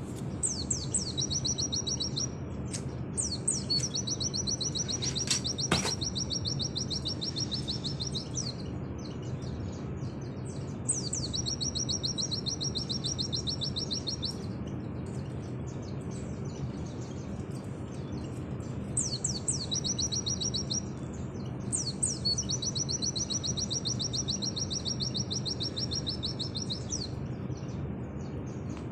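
A white-eye (pleci) singing in long, very fast chattering phrases of high notes, its 'nembak' style, four runs of several seconds each with short pauses between. A steady low hum runs underneath, and there is one brief click about six seconds in.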